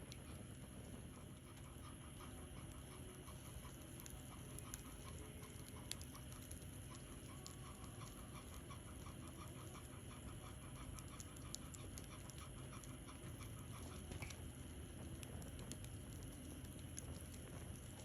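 A wood bonfire crackling, with scattered sharp pops. Through the middle a dog pants rapidly and rhythmically.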